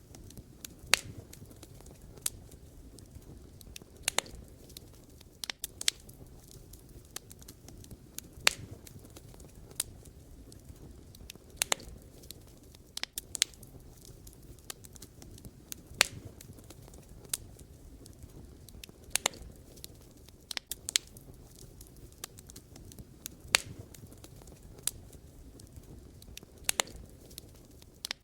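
Wood fire crackling: irregular sharp pops and snaps of burning logs over a low, steady rush of flame.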